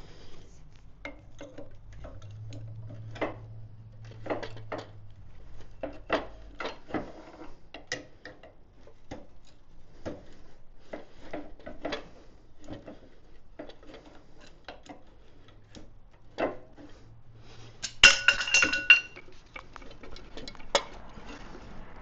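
Scattered light metallic clicks and taps of hand tools and motorcycle parts being worked on, with a louder, briefly ringing metal clatter about eighteen seconds in.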